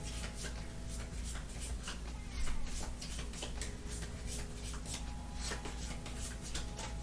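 Trading cards being handled on a table: frequent light clicks and rubs over a steady low hum.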